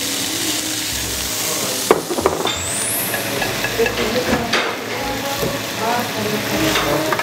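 Diced pork sizzling in olive oil in a hot frying pan, a steady hiss. It is stirred with wooden chopsticks that knock and scrape against the pan, most sharply about two seconds in.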